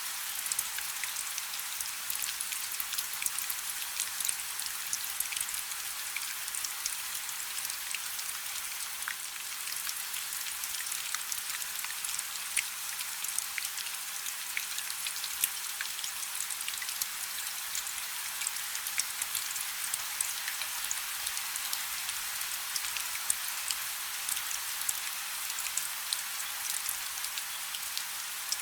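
Steady rain falling on a river: an even hiss of countless small drops striking the water, with crisp individual drop ticks scattered through it.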